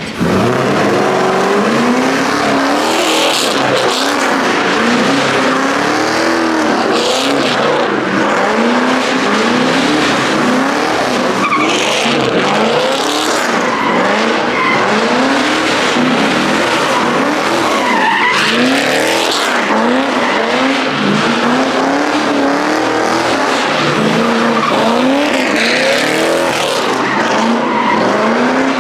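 A car doing a long burnout: the engine revs up and down again and again while the rear tyres spin and squeal on the pavement. It starts suddenly at full loudness.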